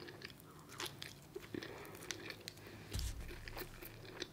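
Close-up biting and chewing of a crunchy snack, a quick run of sharp crunches, with one low thud about three seconds in.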